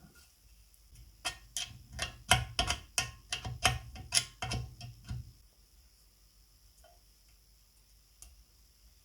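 A run of about a dozen sharp clicks or light taps, roughly three a second, starting about a second in and stopping after about four seconds.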